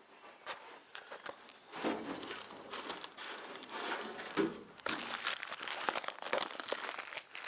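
Irregular rustling and crinkling with scattered sharp clicks and knocks, denser about two seconds in and again from about four seconds on.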